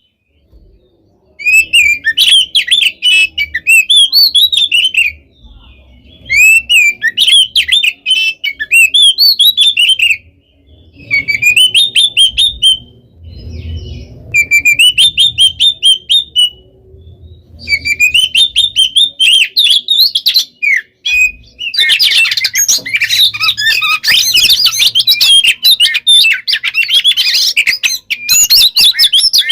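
Oriental magpie-robin (kacer) singing loud, rapid, varied phrases of whistles and chatter, packed with fill notes, in bursts with short pauses between them; about two-thirds of the way in the song becomes a dense, unbroken run.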